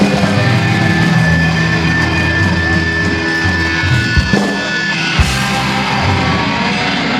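Live punk rock band playing loud, with distorted electric guitar.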